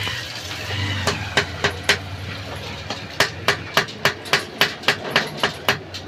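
Hammer striking metal on a motorcycle rear shock absorber being dismantled. A few spaced blows come first, then from about three seconds in a quick, even run of about three or four strikes a second.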